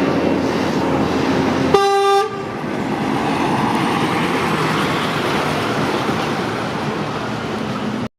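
A vehicle horn gives one short toot of about half a second, about two seconds in, over steady engine and traffic noise from passing vehicles.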